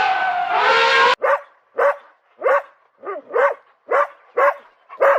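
A long held, siren-like tone cuts off abruptly about a second in, followed by a dog's short, evenly spaced barks, about two a second.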